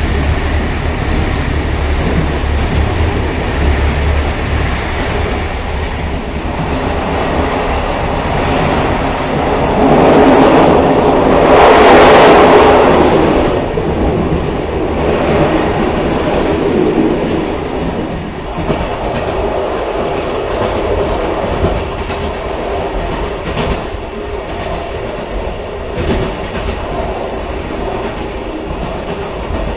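Railcar rolling along the track: a steady rumble with wheel clatter over the rails. It swells louder and brighter for a few seconds about ten to fourteen seconds in, then settles back.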